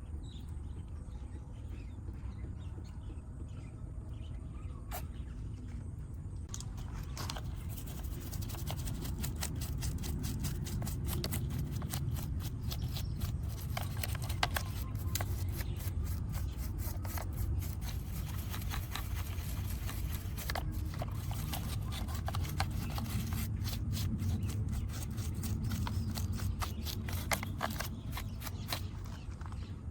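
Many small scrapes and clicks from hand-cleaning a muddy diecast model car, over a steady low rumble. The clicks thicken about a quarter of the way in.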